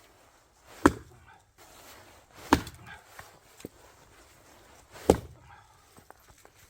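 Axe splitting firewood: three sharp chopping strikes about two seconds apart, with a few lighter knocks between them.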